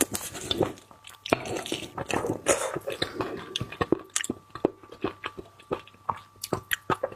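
A person chewing and biting raw seafood close to the microphone, with many sharp, irregular clicks and wet mouth sounds.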